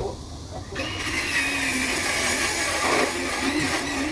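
An electric power tool's motor starts up about three-quarters of a second in and runs steadily with a loud, hissing whir.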